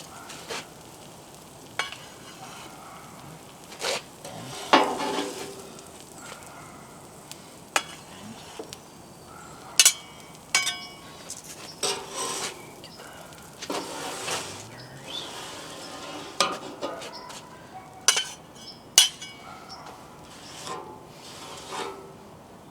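Metal spatulas scraping and clinking on the Blackstone griddle's steel top as the grilled cheese sandwiches are lifted off, in irregular sharp scrapes and clinks, some ringing briefly, over a faint steady sizzle.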